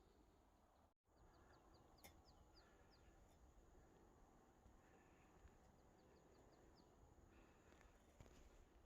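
Near silence with faint bird calls: two runs of quick, short high chirps a few seconds apart over a faint outdoor hiss.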